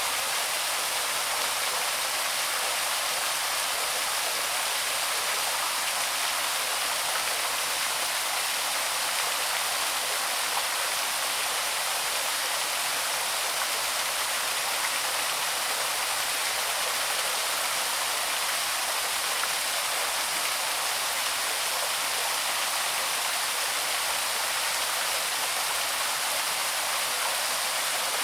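Small waterfall on a woodland stream, water falling and splashing in a steady, unbroken rush with a hissy, bright character and little low rumble.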